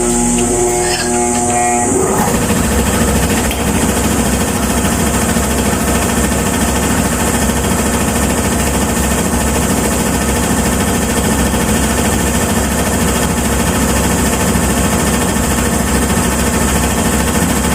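A machine motor running steadily and loudly with a fast, even pulse, starting about two seconds in.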